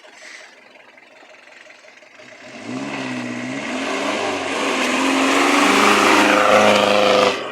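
A 4x4's engine revving under load as it crawls up an off-road obstacle. It comes in about two and a half seconds in, the revs rising and falling, and gets louder toward the end.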